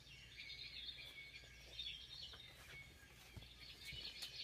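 Faint background birdsong: wild birds tweeting in many short, high chirps and twitters, growing into a quick run of chirps near the end.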